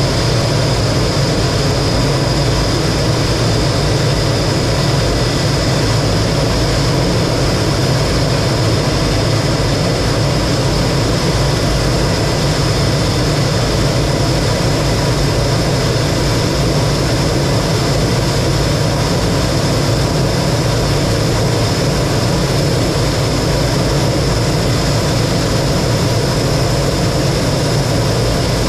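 T-33 jet trainer's turbojet engine running steadily in flight, heard as an even rush of engine and air noise over a low rumble, with a constant high whine.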